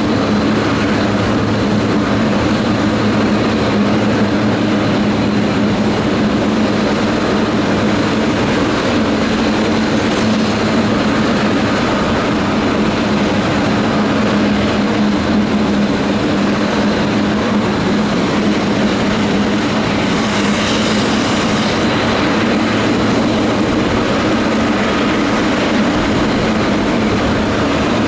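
Boeing 777-300ER's GE90 turbofan engines running at a steady power, a loud even drone with a low hum and a faint high whine.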